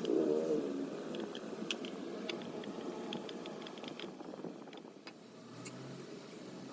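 Scattered light clicks and taps over a steady low hum, with a brief wavering tone at the start.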